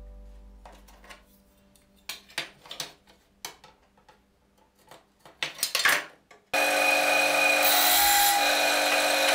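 A pencil scratching marking lines on plywood along a steel rule, in several short strokes. About six and a half seconds in, a benchtop band saw starts running steadily, not yet cutting, and it is the loudest sound.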